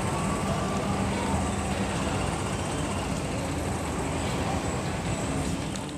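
Steady road traffic noise with a low, even engine hum from vehicles running along a busy street.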